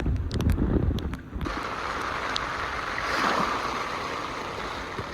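Sea waves washing in, a rushing wash that swells about halfway through and then ebbs. A low rumble with a few knocks comes first, for about the first second and a half.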